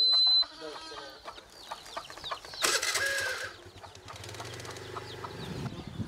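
Birds calling with many short high chirps, and a louder harsh call about two and a half seconds in. A short high steady beep sounds at the very start.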